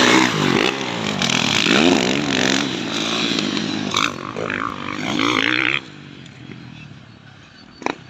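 Motocross dirt bike engines revving, loud and repeatedly rising and falling in pitch, cutting off abruptly about six seconds in; then a quiet background with one sharp knock near the end.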